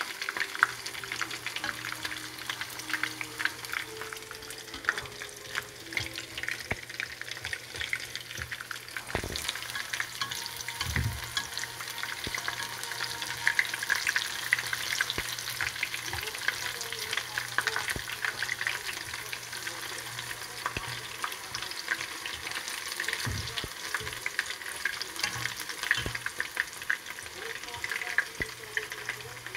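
Battered vegetable fritters of potato, onion, carrot and green onion deep-frying in hot oil in a pan: a steady dense crackle of popping, sizzling oil.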